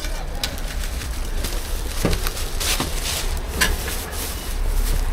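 Street-food stall cooking sounds: a steady low rumble with a few sharp clicks and scrapes of utensils on a flatbread griddle.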